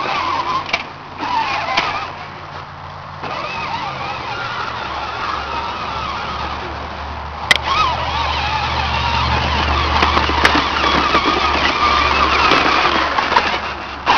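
Battery-powered John Deere ride-on toy tractor's electric motor and gears whirring as it drives, growing louder about four seconds in. There is a sharp click about halfway through.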